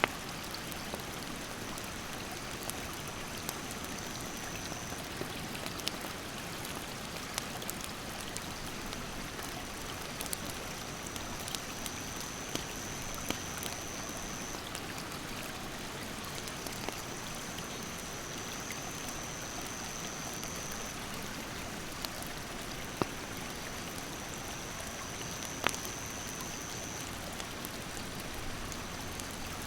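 Mountain stream rushing steadily, with firewood in a campfire crackling in scattered sharp pops, two of them louder near the end. A thin, high insect buzz comes and goes in stretches of several seconds.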